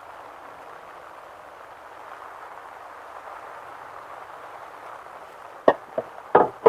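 Steady rain falling. In the last second there are four or so sharp knocks, the loudest near the end.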